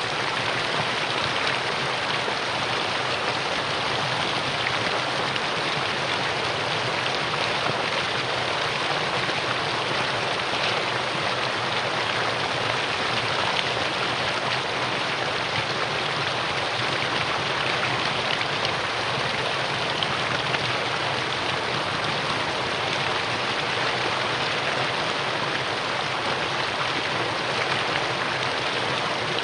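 Mountain stream rushing steadily over rocks in a valley, a constant dense hiss of flowing water.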